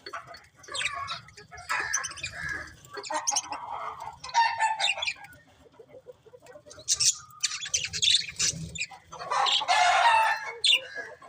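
Budgerigars chirping and chattering in irregular bursts, with a short lull about halfway through and a busy, dense stretch of warbling near the end.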